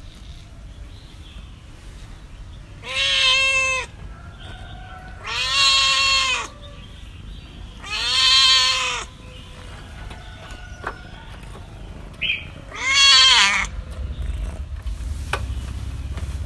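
Domestic cat meowing four times, each call about a second long, rising and then falling in pitch. A low rumble grows louder near the end.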